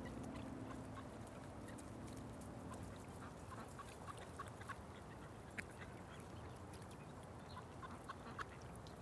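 Background music fading out over the first few seconds, leaving a quiet outdoor ambience with scattered short, faint bird calls.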